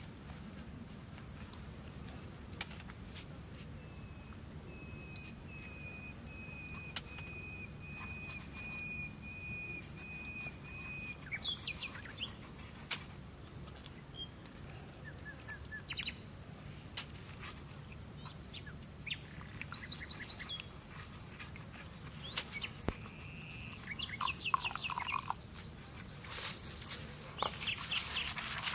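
Forest ambience: small birds chirping, with a high insect-like pulse repeating about once a second. A long thin whistle is held for several seconds near the start, and bursts of quick chirps come about halfway and near the end.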